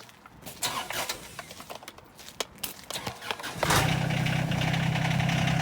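Farm tractor engine starting: after a few seconds of scattered clicks and knocks, it catches suddenly about three and a half seconds in and runs steadily and loudly.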